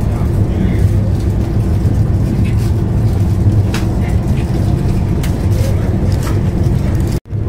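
Steady low rumble of a moving passenger train, heard inside the coach, with a few light clicks. The sound cuts out for a moment near the end.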